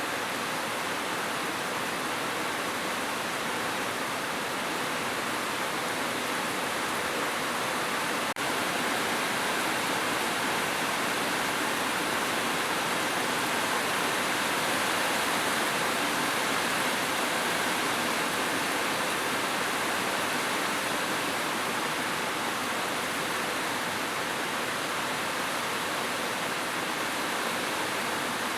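Heavy rain falling steadily on a roof, an even rushing patter with no let-up. One brief click about eight seconds in.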